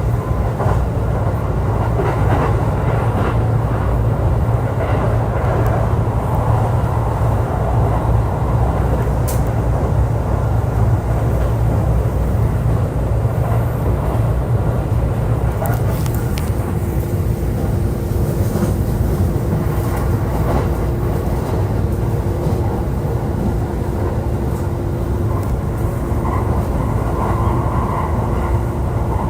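E531 series electric multiple unit running, heard from aboard: a continuous low rumble of the wheels on the rails. About halfway through, a steady hum comes in and holds.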